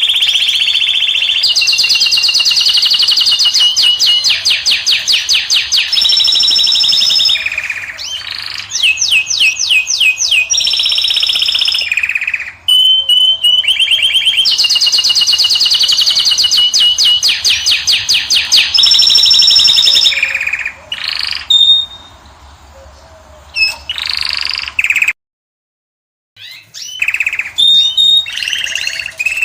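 A caged finch singing a long, loud song of rapid trills, buzzy rattles and held whistles. It breaks off completely for about a second near the end, then resumes.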